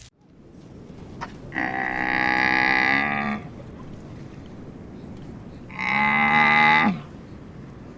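A cow mooing twice: a steady call of about two seconds, then a shorter one that drops in pitch at its end.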